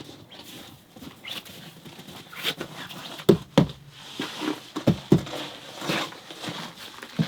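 Irregular knocks and thumps with rustling between them, the loudest a pair a little past three seconds in, with more near five seconds and just before the end.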